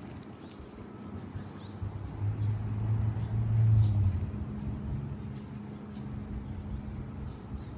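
Low engine hum of a passing motor vehicle, swelling about two seconds in and fading after about four seconds, over a steady low drone.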